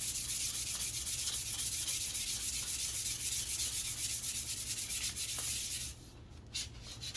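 150-grit sandpaper rubbing along a wooden walking stick: a steady, fast rubbing hiss that stops about six seconds in, followed by a couple of brief strokes.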